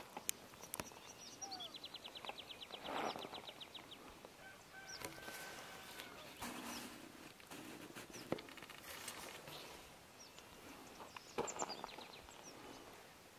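Several birds calling: short high chirps scattered throughout, with a rapid high trill about two seconds in, and a few faint sharp clicks.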